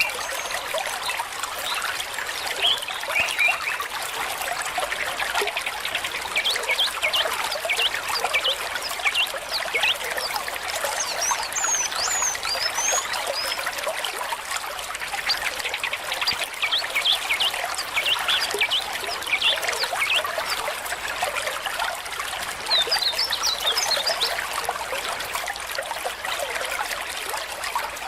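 Stream water trickling, a steady babble of water.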